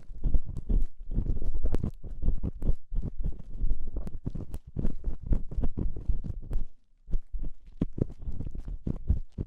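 Close-up ear-cleaning ASMR sounds on a binaural ear microphone: quick, irregular scratching and rubbing strokes with a deep rumble and sharp crackling clicks, broken by a brief pause about seven seconds in.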